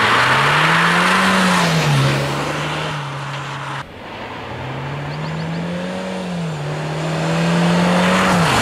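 Car engine accelerating hard: its note climbs, drops suddenly as if at a gear change, and climbs again, over road and wind noise. The sound is in two edited pieces with a sharp cut about four seconds in, and the engine note falls away near the end.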